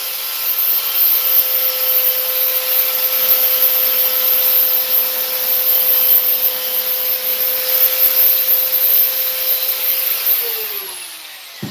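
Electric sander running with a steady whine while sanding fiberglass repair work. About ten and a half seconds in, it is switched off and its whine falls as the motor spins down.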